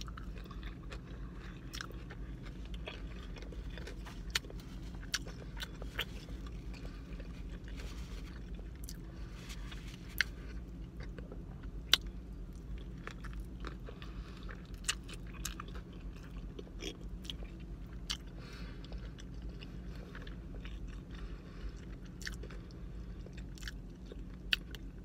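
A person chewing and biting into a burger close to the microphone, with irregular sharp mouth clicks and smacks, over a steady low hum.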